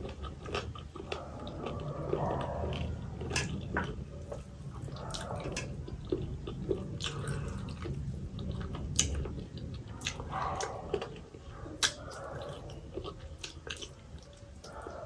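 Close-miked chewing of rice mixed with chicken and potato curry, eaten by hand, with many sharp, wet mouth clicks and smacks.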